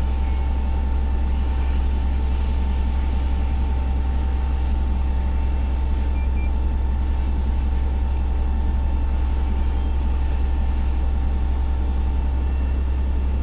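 Fire engine's engine running steadily: a constant low drone with a thin, steady whine above it.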